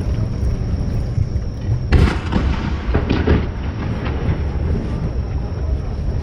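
Steady low rumble of wind and surf on the microphone. A firework shell bursts about two seconds in, followed by a short run of fainter crackling pops.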